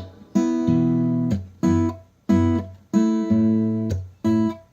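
Acoustic guitar strumming chords in a rhythmic pattern, each chord ringing and dying away before the next, with no singing.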